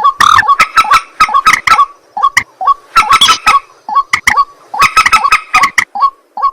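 White-breasted waterhen (ruak-ruak) calling: loud, harsh, rapid notes in repeated clusters, one burst about every second.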